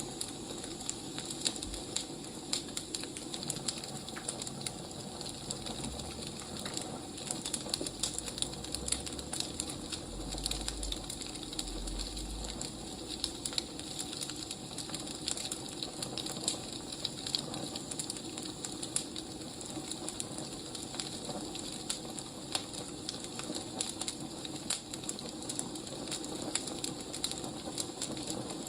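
Wood fire crackling: irregular small pops and snaps over a steady soft hiss.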